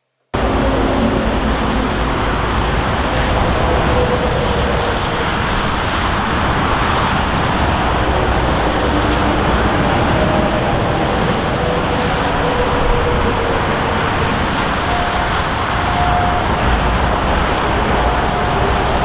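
Jet engines of a Boeing 747-400F freighter running, a loud steady rushing noise with faint wavering tones, cutting in abruptly just after the start.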